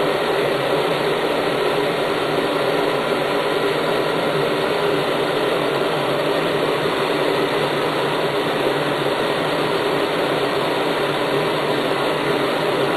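Soft bonnet hair dryer running steadily on its high, hot setting, its fan motor blowing air into the inflated bonnet bag with a constant whir.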